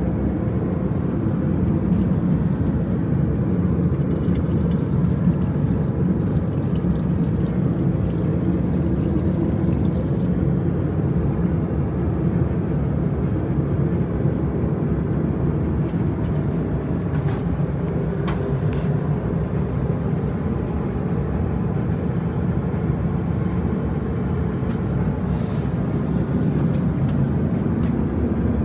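Cabin noise of an Airbus A350-1000 in flight on descent: a steady low drone of airflow and engines. A faint high hiss joins about four seconds in and stops about six seconds later.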